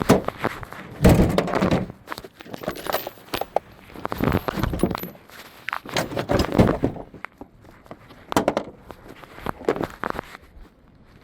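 Metal hand tools clinking, clanking and scraping in irregular bursts, a wrench working on the car battery's terminal and hold-down hardware.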